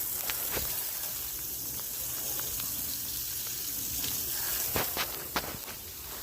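Steady hiss of freezing rain falling on ice, with a few sharp ticks scattered through it.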